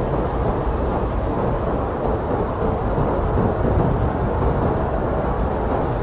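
Steady, low, rumbling wind noise of a blizzard ambience track, with no gusts or breaks.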